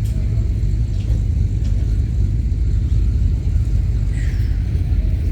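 Low, steady rumble of a Mustang's swapped-in SVT Cobra V8 idling.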